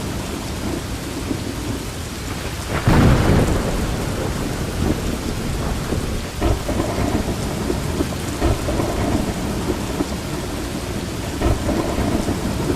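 Steady rain with low rumbles of thunder, and one louder thunderclap about three seconds in.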